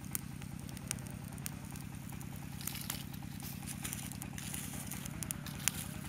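Small open fire of dry leaves and twigs crackling, with scattered sharp pops, over a steady low hum.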